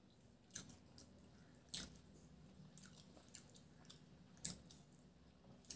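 Faint eating sounds of chewing, with four short, sharp wet smacks of mouth and fingers while hilsa fish in mustard sauce is eaten by hand.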